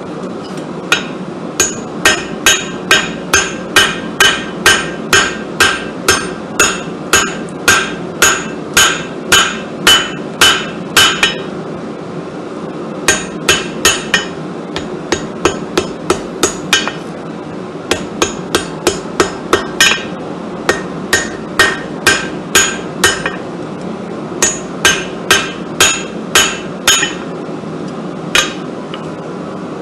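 A hand hammer striking hot steel on an anvil, forging a Damascus steel bar by hand. The blows come about two a second, each with a short ring, in four runs separated by short pauses, and a single last blow comes near the end. A steady rushing noise runs underneath.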